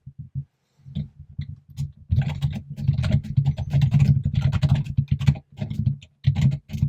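Typing on a computer keyboard: a few scattered keystrokes, then a fast, continuous run of keystrokes from about two seconds in, broken by short pauses near the end.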